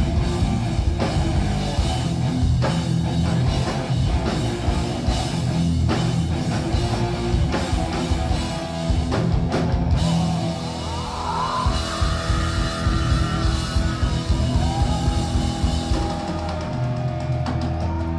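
Metal band playing live: drum kit and heavy guitars at full volume. A little after ten seconds in, a bending lead melody line comes in over the band, and near the end the cymbals and high end fall away, leaving a low held chord.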